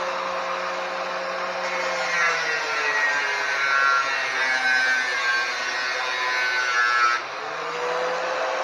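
Grinder cutting into a metal motorcycle frame. The motor whines steadily at first. About two seconds in the cut begins: the motor's pitch sags under the load and a harsh rasp of metal is added. About seven seconds in the cut stops abruptly and the motor spins back up to full speed.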